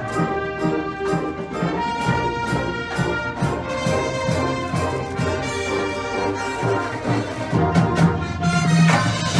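High school marching band playing: a brass section holding chords over a steady beat of drumline strikes.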